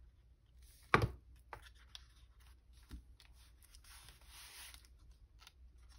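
Paper-craft handling at a desk: a sharp knock about a second in, a few light clicks, then about a second of paper rustling.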